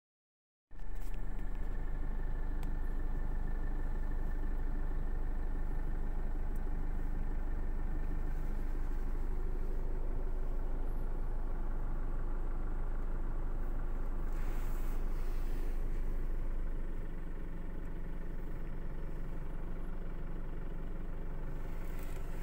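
A car engine idling, heard from inside the cabin as a steady low hum that starts just under a second in and eases slightly in level about seventeen seconds in.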